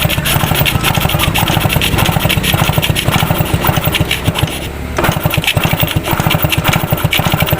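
A small engine running steadily, with a fast, even low pulse and a rasping noise over it.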